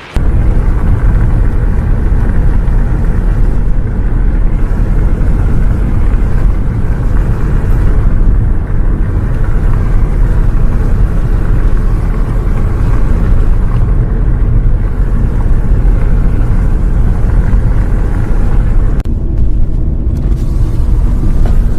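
Interior of a bus on the road: a loud, steady low rumble of engine and road noise.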